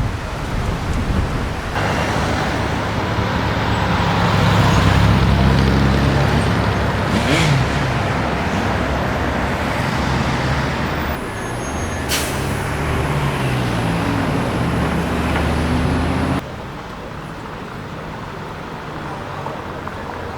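City street traffic with car engines running and passing close by, their pitch shifting as they move, over steady road noise. The sound changes abruptly a few times, and there is a short sharp noise about twelve seconds in.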